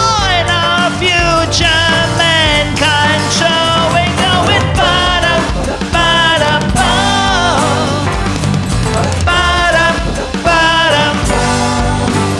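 Live band playing a funky soul-rock song: a bass and drum groove under a melodic lead line whose pitch slides and bends.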